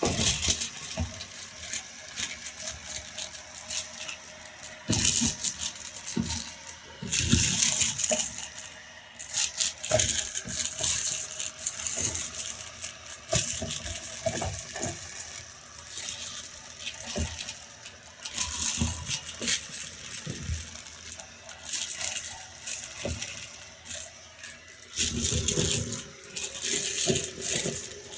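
Loose beads clattering and rattling as a vacuum cleaner sucks them up, in uneven bursts of many small hard clicks that rise and fall as the nozzle moves through the pile.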